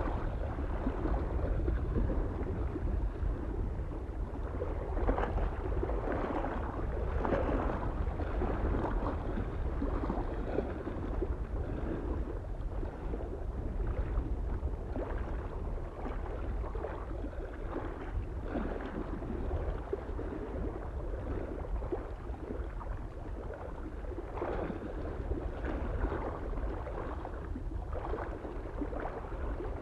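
Small waves lapping and splashing against a lake shore in irregular, uneven surges, over a steady low rumble of soft wind.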